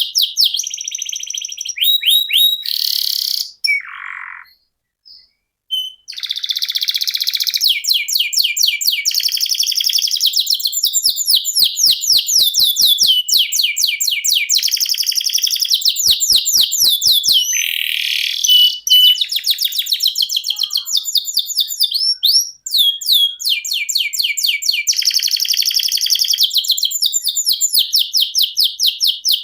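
Domestic canary singing a long, continuous rolling song of fast repeated high trills that switch from one trill to the next, with a short break about four seconds in.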